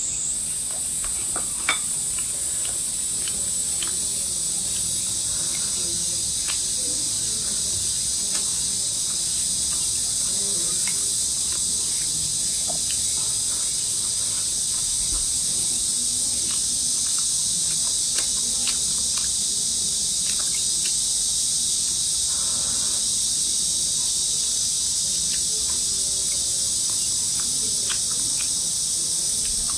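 Steady, high-pitched insect chorus that does not let up, with faint scattered clicks beneath it.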